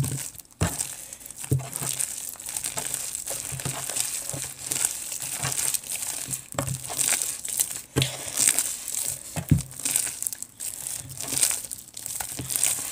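Jelly cube slime, glue slime full of magic eraser foam cubes, being squished and worked by hand. It makes a continuous irregular run of wet crinkling and clicking sounds.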